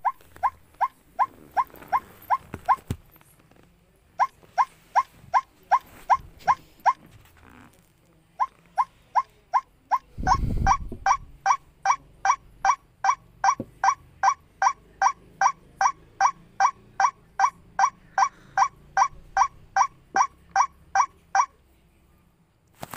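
White-breasted waterhen calling, a short call repeated evenly about three times a second in three bouts with short pauses between; the last bout runs about thirteen seconds. A brief low rumble about ten seconds in.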